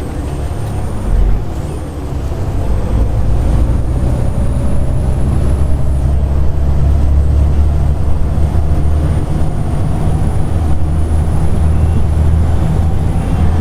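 Volvo B7TL double-decker bus's engine pulling, heard on board. There is a loud low drone, and a thin high-pitched whine rises and falls twice. A thump comes about a second in, and the engine gets louder about two seconds in.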